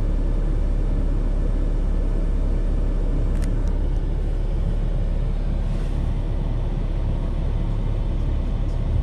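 BMW E46 320d's four-cylinder diesel engine idling steadily as a deep rumble, still cold after a start at −10 °C.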